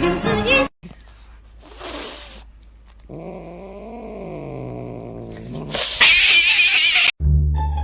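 A cat yowling: one long, drawn-out call that rises and falls in pitch, then a louder, harsher cry near the end.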